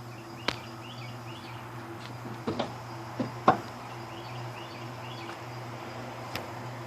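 A few sharp, irregular clicks from the 1996 Chevrolet S10's starter as the key is tried, with no cranking: the starter is clicking instead of turning the engine, typical of a poor electrical connection at the starter. A steady low hum and faint high chirps run underneath.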